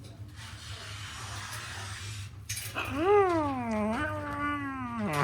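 Pet parrot giving one long, drawn-out whining call, rising then falling in pitch, that starts about three seconds in and lasts over two seconds with a brief break partway.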